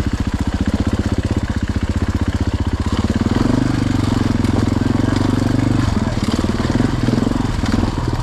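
Dirt bike engine ticking over with an even, pulsing beat, then opened up about three seconds in to a louder, steadier run as the bike sets off.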